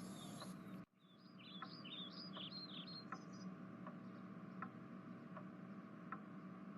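Faint bird chirps, a quick run of short high calls a second or so in, over a low steady hum and faint ticks about every three-quarters of a second.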